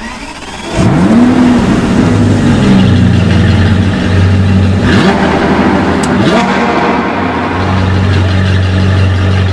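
Car engine revving in several rising sweeps over a steady low drone, loud throughout.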